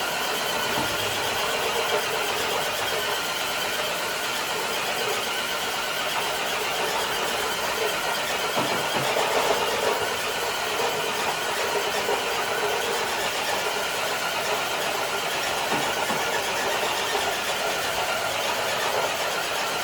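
RC crawler truck's motor and drivetrain whining under load as it pulls a weighted dead sled across concrete. The sound is steady, with a few brief surges.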